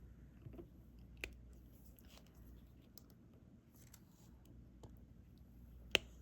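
Small, sharp clicks and taps of diamond painting: resin drills being picked up with the applicator pen and pressed onto the canvas. The clicks are scattered, with a sharper one about a second in and the loudest near the end.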